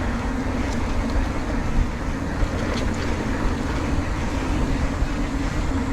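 Motorcycle riding at steady speed: an even engine hum under a constant rush of wind on the microphone.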